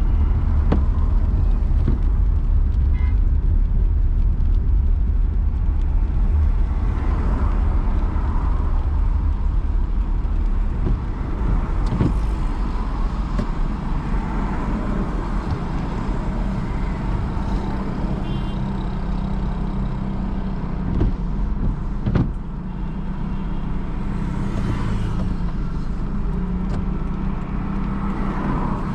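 A car being driven, with a steady low rumble of engine and road noise and a few brief knocks along the way.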